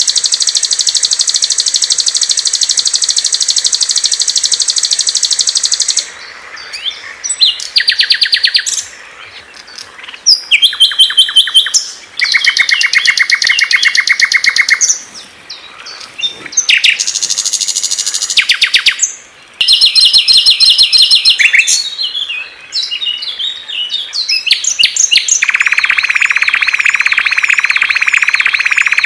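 Small songbirds singing in fast, high-pitched trills and rapid chirp series, one bird's song cut abruptly into the next every few seconds. A long dense trill opens, and a lower, steady trill with high notes above it runs near the end.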